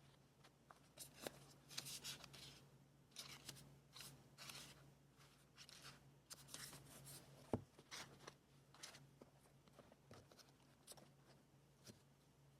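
Quiet rustling and rubbing of paper and scrapbooking materials being handled, in short scattered strokes, with one sharp tap a little past halfway.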